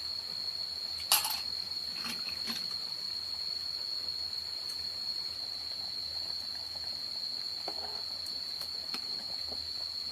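Insects, such as crickets or cicadas, keep up a steady high-pitched trill. A sharp knock comes about a second in, then two lighter clicks and a few faint ticks later.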